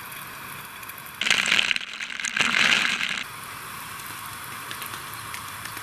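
Water spraying in two bursts of about a second each, a short gap apart, as ducklings are showered.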